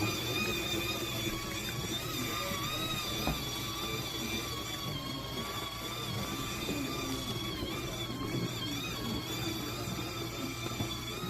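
A small electric motor whining steadily, its high pitch wavering slightly, over a low steady hum.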